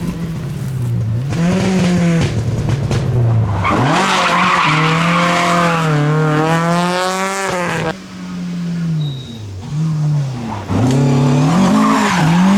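Rally car engine revving hard, its pitch rising and falling repeatedly as the car is driven through a slide with tyres squealing. About eight seconds in the revs drop off sharply, then climb again.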